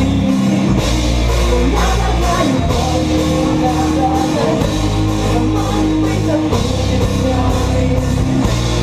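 A rock band playing live: a steady drum beat under bass, guitar and singing.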